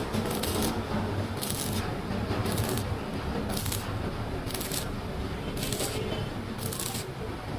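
Stick welding arc with an E6013 electrode, crackling and sizzling steadily, with a brighter hiss swelling about once a second.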